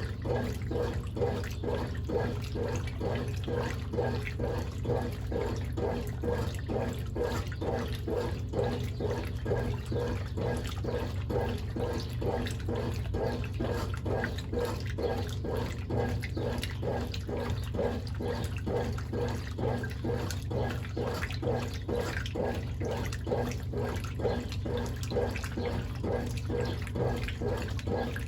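Brastemp Ative 11 kg top-loading washing machine in its wash action, churning the laundry through the water in a steady rhythm of about two swishes a second, over a low motor hum.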